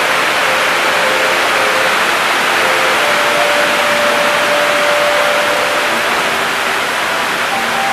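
Heavy rain pouring down, a loud, steady hiss. A faint held tone sounds under it through the middle.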